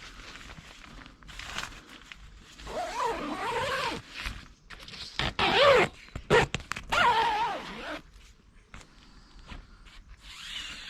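Dog whining in three wavering, high-pitched cries that rise and fall, with short rasping sounds between them.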